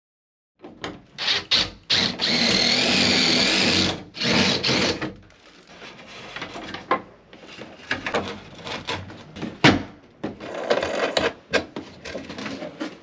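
A power drill runs in short bursts, with one steady two-second run whose pitch wavers, among sharp knocks and clatter from tools and wood being handled.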